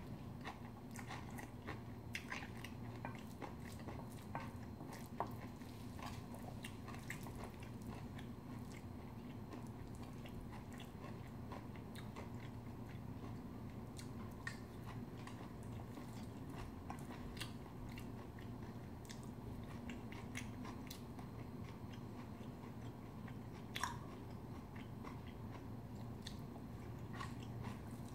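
Close-miked chewing of bibimbap, rice mixed with sautéed namul vegetables and egg yolk: a steady run of small wet mouth clicks and smacks, with one sharper click about four seconds before the end. A steady low hum lies under it.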